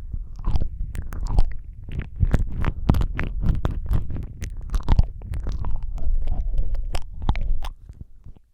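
ASMR mouth sounds made right at the microphone: a dense, irregular run of wet lip smacks, tongue clicks and licking sounds with low thumps, thinning out near the end.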